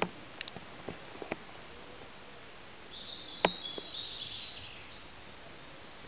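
A small bird sings a short, high chirping phrase about halfway through, over a steady background hiss. A few light clicks come in the first second or so, and a louder sharp click lands in the middle of the bird's phrase.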